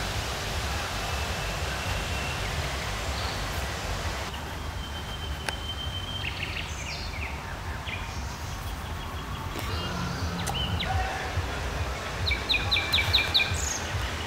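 Songbirds chirping and calling over a steady low rumble, with a quick run of about six sharp repeated notes near the end.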